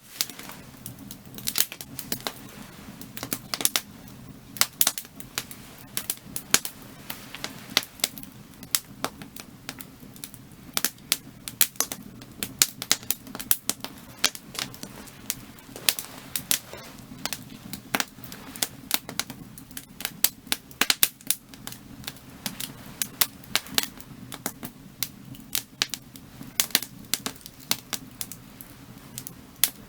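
Firewood burning, with frequent irregular sharp crackles and pops over a low steady rumble of the fire.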